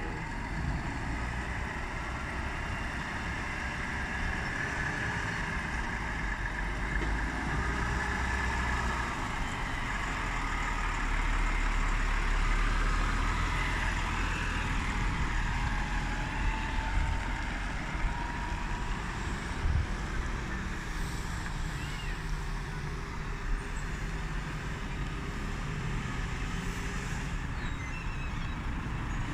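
Steady road-vehicle noise: heavy lorry engine and tyre rumble, growing a little louder around the middle.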